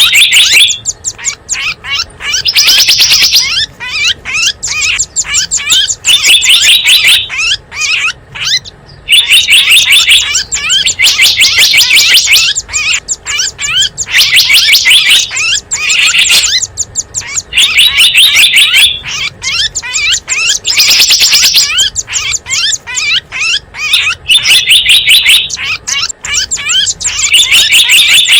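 Bird-lure recording of small songbirds chirping loudly: quick high chirps alternating with dense, buzzy trills about a second long, repeating in a steady loop every couple of seconds.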